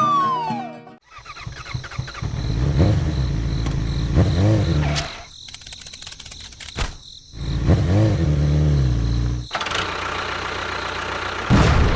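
An engine revving in two stretches, each rising and falling in pitch, with abrupt cut-offs and a short gap of clicks between them; a sudden loud burst comes near the end.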